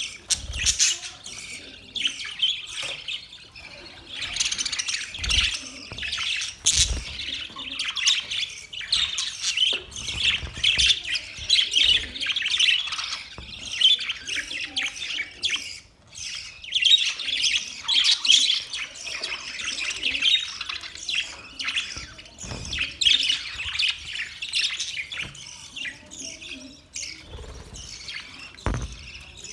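A group of budgerigars chirping and chattering together, a dense, continuous warble of many overlapping short calls and squawks. It briefly thins out about halfway through, and there are a few low thumps.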